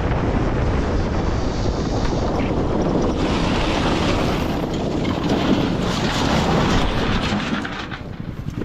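Steady wind noise rushing over the microphone of a moving motorcycle's camera at speed, a dense even rush that grows brighter and hissier midway through.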